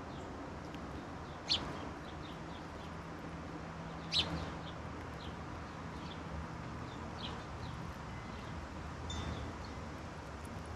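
Wild songbirds calling: two loud, sharp, very short calls about a second and a half and four seconds in, among scattered fainter chirps, over a low steady background rumble.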